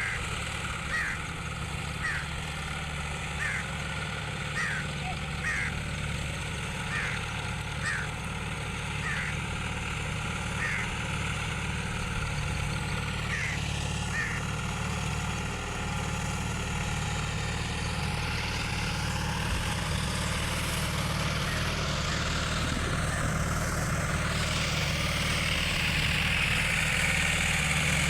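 John Deere tractor engine running steadily as it drives a Shaktiman rotavator puddling a flooded paddy field, growing gradually louder toward the end. Short high chirps repeat about once a second during the first half.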